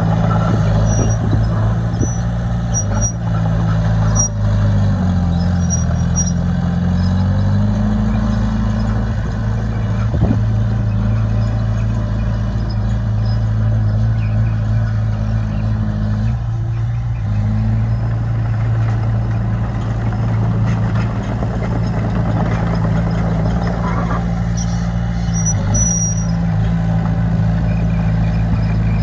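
Heavy diesel engine of earthmoving machinery, likely a bulldozer, running steadily under load. Its pitch dips and climbs back between about four and eight seconds in, with a couple of sharp clicks and faint high squeaks.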